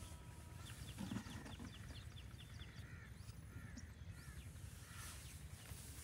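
Birds calling: a quick run of about ten short high chirps about a second in, then scattered lower calls over a faint steady background noise.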